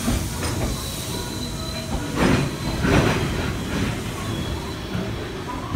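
Train running: a continuous rumble of wheels on rails with a thin steady high whine, and two louder bursts of noise about two and three seconds in.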